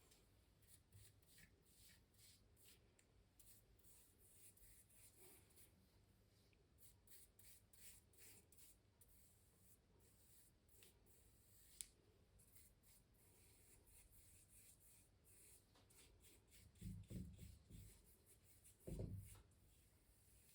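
Faint, quick scratchy strokes of a drawing or painting tool on canvas. A single sharp click comes about twelve seconds in, and two dull low thumps near the end are the loudest sounds.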